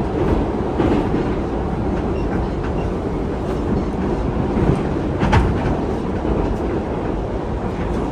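MetroWagonMash 81-775.2 metro train running at speed through a tunnel, heard from inside the car: a steady rumble of wheels on rail with occasional clicks over rail joints, one louder knock about five seconds in.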